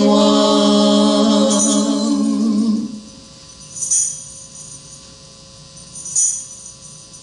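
Slow gospel singing: one long sung note is held and ends about three seconds in. A tambourine shakes once about every two seconds on the beat.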